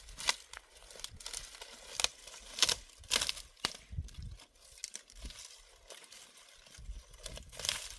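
Dry plant material rustling and crackling as it is handled by hand, in irregular bursts, busiest in the first half and again near the end.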